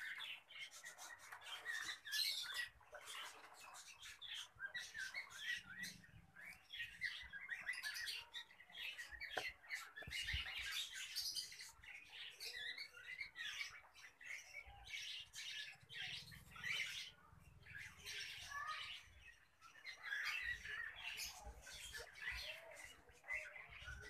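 Many small cage birds chirping continuously, a dense chatter of short, high calls overlapping one another.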